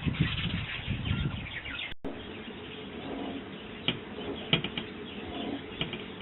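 Small garden birds at a feeder: wings fluttering and faint chirps for about two seconds. After a short break comes a steadier background with a few sharp taps, near the middle and near the end.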